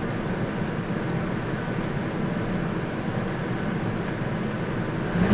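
2006 Dodge Dakota engine running steadily. The truck shakes, but the scan tool shows no cylinder misfiring at this point.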